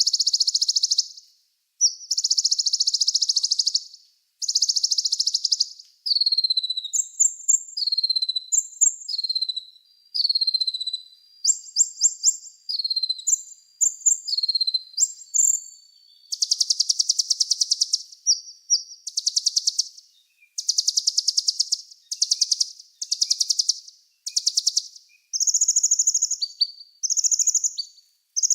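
Small songbird singing at a high pitch: runs of very rapid trills lasting a second or two alternate with short falling whistles and quick chips, with brief pauses between phrases.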